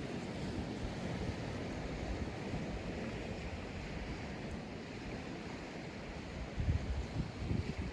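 Sea surf washing steadily onto a sandy beach, with low rumbling gusts of wind buffeting the microphone near the end.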